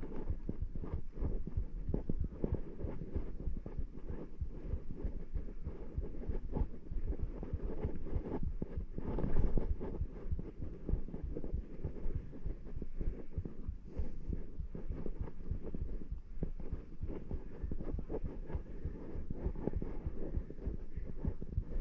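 Irregular low thumping and rumble on the microphone, with a brief swell about nine seconds in.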